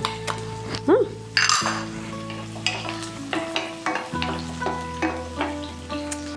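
Chopped garlic and onion sizzling in hot oil in a non-stick frying pan while a wooden spoon stirs them, with short scrapes and taps of the spoon against the pan. The sizzle flares up about a second in as the garlic hits the oil.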